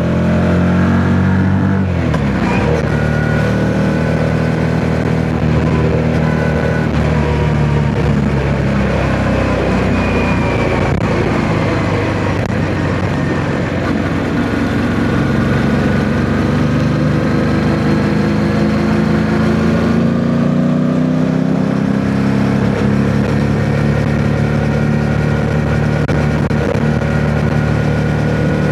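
Yamaha MT-07's 689 cc parallel-twin engine pulling the bike along, its pitch dropping about two seconds in and then climbing steadily from about two-thirds of the way through as the rider works the throttle, with wind noise on the helmet microphone.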